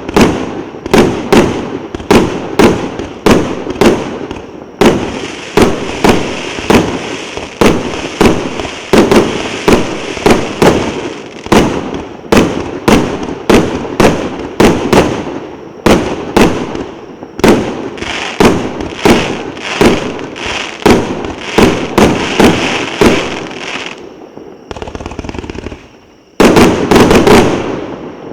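1.2-inch, 220-shot fireworks cake (C087 'Moscow Time') firing shot after shot, at roughly two sharp bangs a second. About 24 seconds in it eases off briefly, then a dense, rapid salvo of bangs follows near the end.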